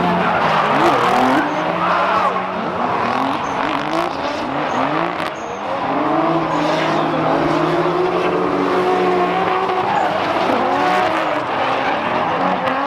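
Drift cars sliding through the course: engines revving up and down over a steady haze of tire squeal.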